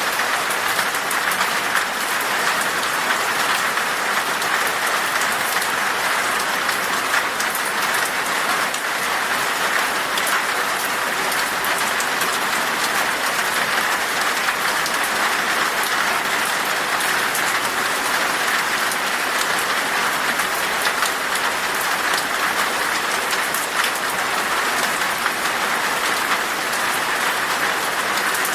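Steady rain falling in a forest, an even hiss of drops with fine pattering ticks, unchanging in strength.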